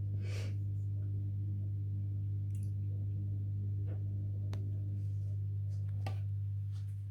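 A washing machine running, heard through the building as a steady low hum with a few faint clicks.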